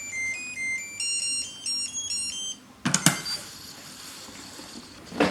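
Food-court coaster pager playing its call signal, a quick melody of short electronic beeps at changing pitches, which stops about two and a half seconds in; then a couple of sharp knocks a moment later, with another right at the end.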